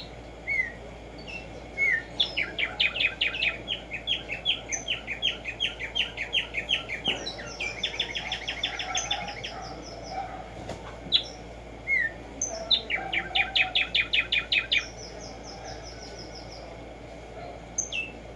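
Black-striped sparrow singing: long series of sharp repeated notes that quicken as they go, heard twice, with a thinner, higher series overlapping the first and a few short rising call notes between songs.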